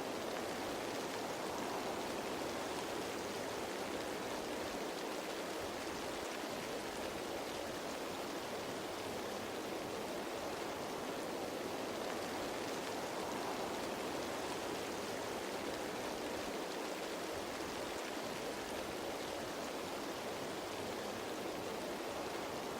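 Steady rain falling on leaves: an even, unbroken hiss with no single drops standing out.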